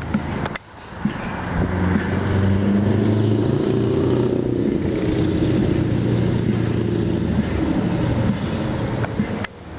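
Scania R500 truck's V8 diesel engine pulling away under load, its sound building about a second in and holding loud and steady, then dropping off sharply near the end.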